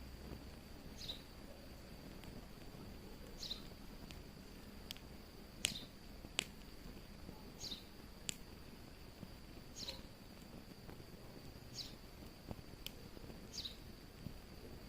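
Wood fire crackling faintly with a few sharp pops. Over it come short falling high chirps about every two seconds and a faint steady high tone.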